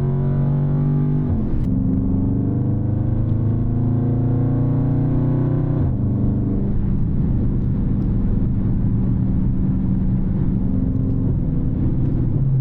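Dodge Charger Scat Pack's 6.4-litre 392 HEMI V8, with its mid muffler deleted and high-flow cats, pulling hard under acceleration: the engine note climbs, drops sharply at an upshift about a second in, climbs again, and drops at a second upshift around six seconds in before holding steady. Heard from inside the car with the windows up.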